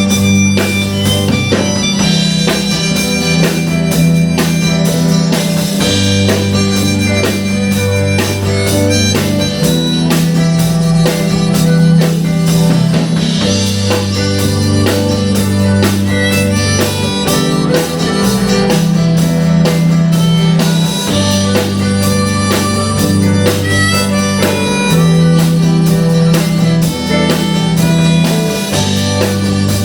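Rock band playing an instrumental passage of the song, with a steady drum beat under a bass line that moves between notes every few seconds.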